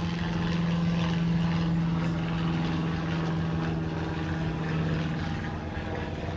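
A steady engine drone with a constant pitch, fading a little about five seconds in.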